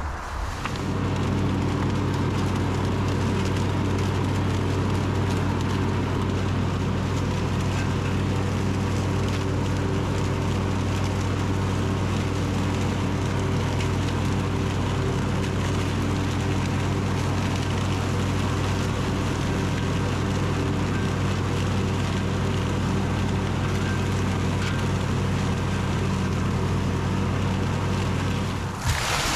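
Simplicity Regent riding lawn tractor running at a steady engine speed with its mower deck engaged, picking up leaves into a rear bag. The steady hum starts abruptly just after the beginning and cuts off abruptly near the end.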